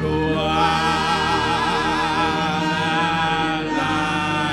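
Slow worship song: singing voices holding long notes with vibrato, over steady low sustained tones.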